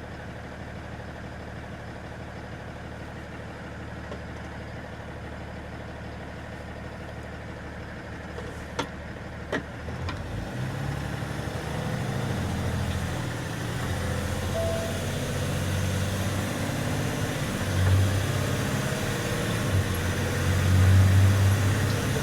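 Box truck engine idling steadily, with two sharp clicks about nine seconds in. The engine then grows louder and deeper, its note rising and falling as if pulling under load.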